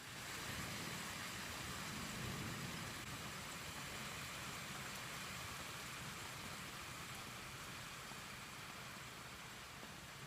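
Steady hiss of rain during a night thunderstorm, with a low rumble of distant thunder swelling about two seconds in.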